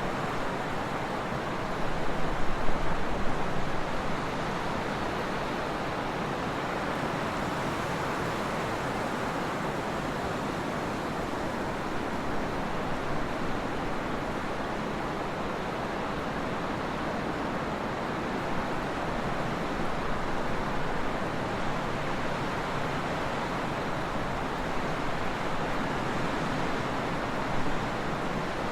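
Trade winds blowing as a continuous rushing noise with a low rumble beneath, with a stronger gust about two to four seconds in.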